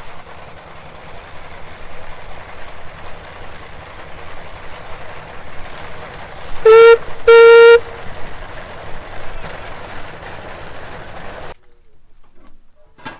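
Steam whistle on a Rumely steam traction engine, blown twice: a short toot, then a slightly longer blast, both very loud. Under them runs a steady noisy background from the engine that cuts off abruptly shortly before the end.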